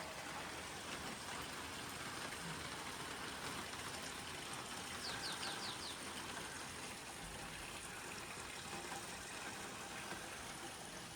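Steady rain falling, an even hiss. A bird gives a quick run of about five chirps about five seconds in.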